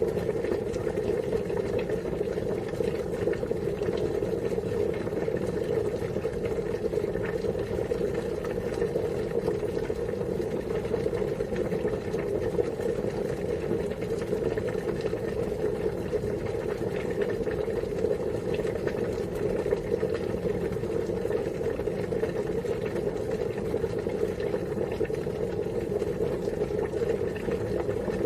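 Water at a steady rolling boil: dense, continuous bubbling with a low, even rumble.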